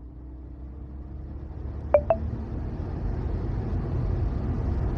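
Car driving, its road and engine noise growing steadily louder, with two short sharp chirps about two seconds in.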